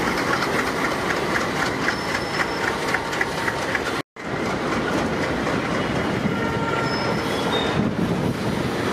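Freight train passing close, hauled by ALCO diesel locomotives: a steady rumble with the wheels clicking over the rail joints in a quick, even rhythm. After a sudden cut about four seconds in, loaded freight wagons roll by with clickety-clack and a few brief, faint high wheel squeals.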